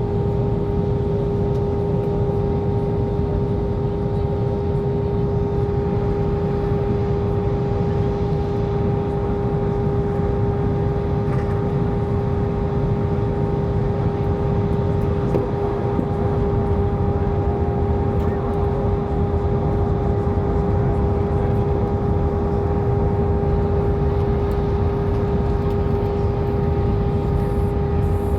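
Steady cabin noise of an airliner in descent: a constant low roar of the engines and rushing air with a steady hum tone running through it.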